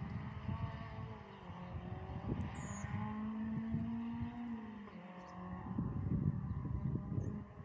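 Rally car engine lapping a tarmac circuit, its note rising and falling with throttle and gear changes. It holds a steady high note for a moment, then drops away about five seconds in.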